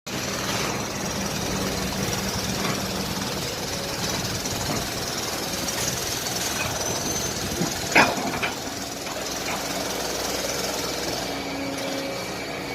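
Excavator running steadily, with a sharp clank about eight seconds in and a few lighter knocks after it.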